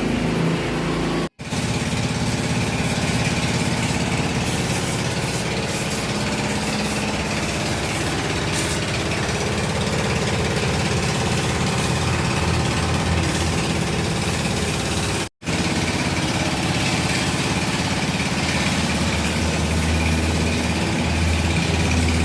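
A vehicle engine running steadily at idle, with two brief moments where the sound drops out completely, about a second in and again about fifteen seconds in.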